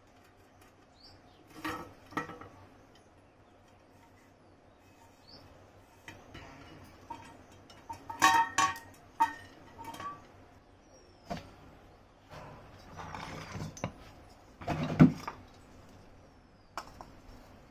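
Metal parts of an old table fan being handled: scattered clinks and knocks, a ringing cluster of clinks about halfway through, a short stretch of scraping and a heavy knock near the end.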